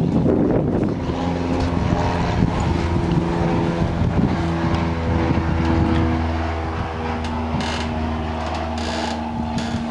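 An engine running steadily with a low hum that eases off about seven seconds in, with wind on the microphone.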